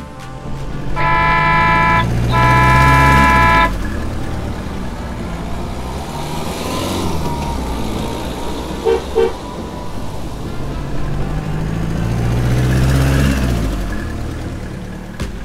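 A car horn honks twice, long blasts close together about a second in, over an engine rumble that swells and fades as a vehicle passes. A second vehicle swells and fades near the end, with a short double beep around the middle.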